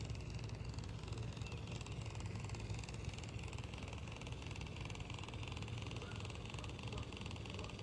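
Small electric RC boat motor running steadily with a ticking noise, a sign of water having got inside it after the boat was stuck in the sand.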